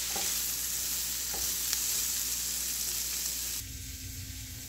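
Sliced onion, garlic and ginger sizzling in olive oil in a frying pan, stirred with a wooden spatula with a few light scrapes. About three and a half seconds in, the sizzle cuts off suddenly, leaving a low steady hum.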